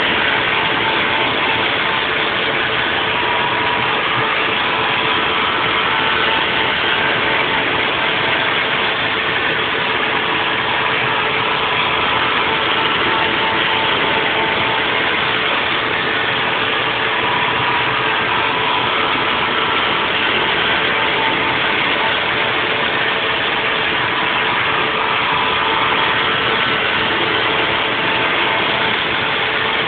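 Haas VF4 CNC vertical mill running a 3D machining program: a steady machining noise with a constant tone, and a higher tone that comes and goes as the tool cuts.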